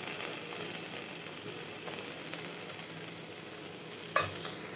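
Diced onion, tomato and green chilli sizzling steadily in hot oil in a frying pan, with one sharp clink about four seconds in.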